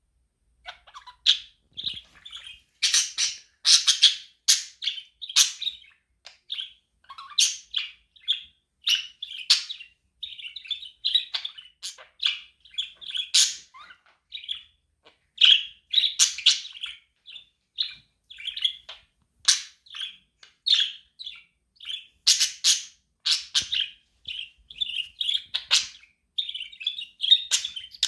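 Budgerigar chirping: a steady run of short, high chirps, several a second, with louder calls now and then.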